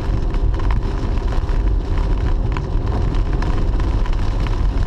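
Car driving, heard from inside the cabin: a steady low road and engine rumble, with scattered light ticks.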